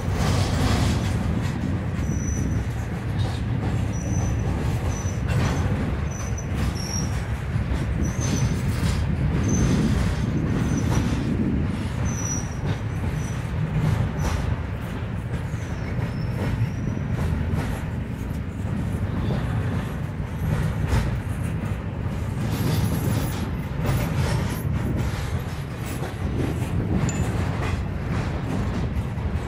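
Norfolk Southern double-stack intermodal freight train rolling past close by: a steady rumble of well cars with wheels clicking over the rail joints. A thin, high wheel squeal comes and goes through the first half.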